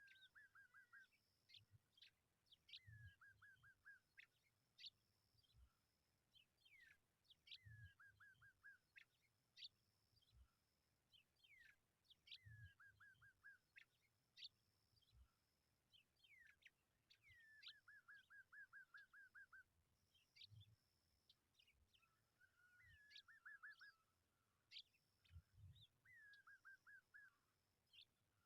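A bird singing faintly. It repeats the same phrase every four to five seconds: a few sharp falling notes, then a short rapid trill.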